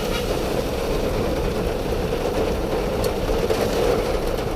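Steady car engine and road noise of a car being driven, an even low rumble without breaks.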